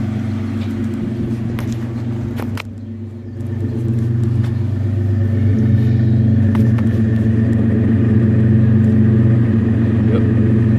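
1996 Mitsubishi 3000GT's V6 idling steadily through a straight-pipe exhaust with a Flowmaster Super 40 muffler and no catalytic converter. It grows louder a few seconds in.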